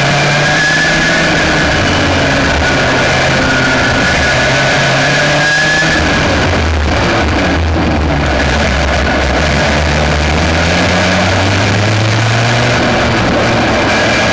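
Aixro Wankel rotary kart engine at racing speed, heard from an onboard camera, loud throughout. Its revs hold for several seconds, drop about six seconds in, then climb steadily near the end.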